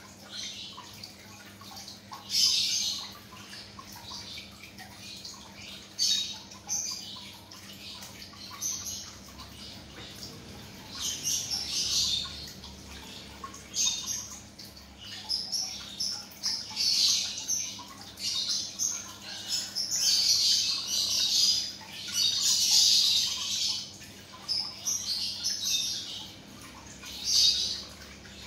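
Birds chirping in short, irregular bursts of high calls, over a faint steady low hum.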